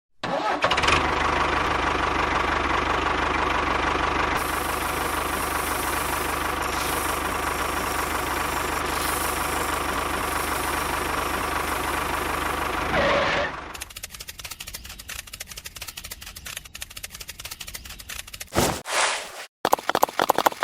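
A motor runs steadily for about thirteen seconds, then cuts off suddenly. After that comes a fast run of light clicks and two short louder bursts near the end.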